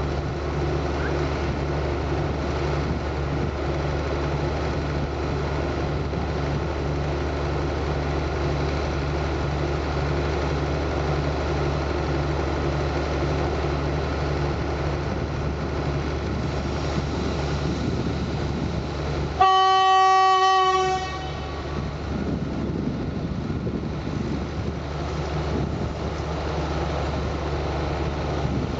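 A diesel train's engine running with a steady, slightly pulsing drone. About two-thirds of the way in, the train's horn gives one loud blast of about a second and a half, signalling departure.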